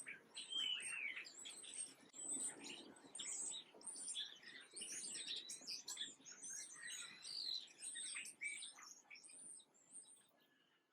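Several small birds chirping and twittering, with many short high calls overlapping, fading away near the end.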